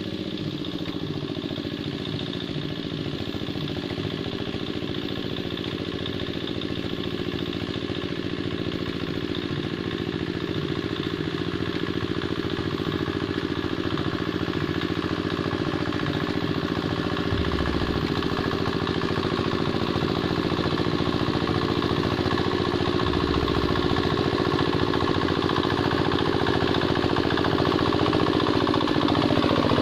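Two-wheel hand tractor's single-cylinder diesel engine running steadily as it plows a wet rice paddy, growing gradually louder.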